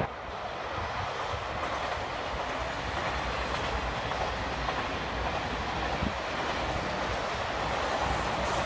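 Double-deck TGV Duplex high-speed train rolling past, a steady noise of wheels on the rails that grows slowly louder, with one short click about six seconds in.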